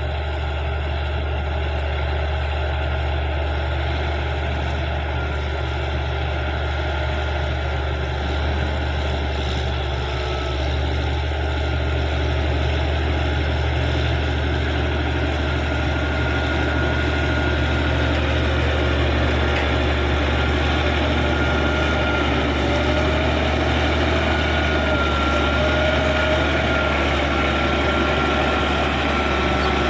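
Caterpillar D6G bulldozer's six-cylinder diesel engine running steadily under work, a deep continuous drone. A thin whine that wavers in pitch rides over it in the second half.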